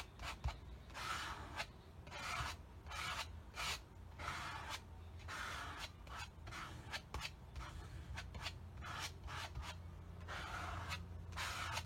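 Scraper dragged over paper, spreading translucent white paint in a series of short, irregular scraping strokes.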